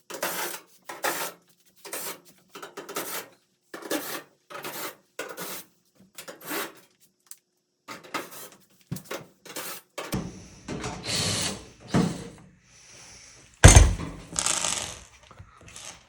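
Hand tools working screws out of a Kenmore dryer's sheet-metal back panel: a run of short rasping strokes, then scraping and handling of the metal panel, with one loud thump about two thirds of the way through.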